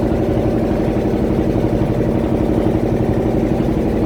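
Fishing boat's engine running steadily under way, a fast, even chugging throb.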